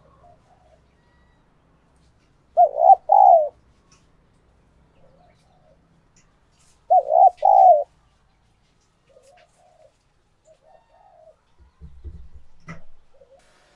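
Spotted dove cooing: two loud two-note coos about four seconds apart, with fainter coos between them. This is the song of a tame decoy dove, used to lure wild doves. A soft low thump and a sharp click come near the end.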